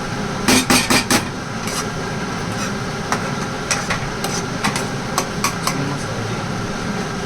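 Cooking utensils knocking against a pan: a quick run of four sharp knocks about half a second in, then scattered lighter clicks, over a steady kitchen hum.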